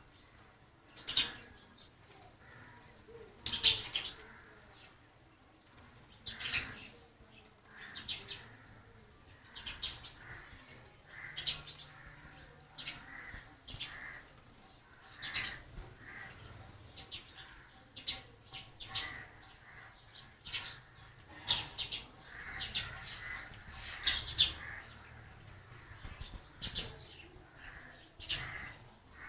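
Birds calling with short, sharp chirps, one every second or two.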